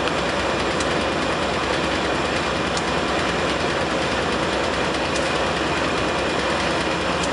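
Two GE AC44 diesel-electric locomotives hauling a container train, a steady rumble of engines and rolling stock as the train approaches, with a few faint clicks.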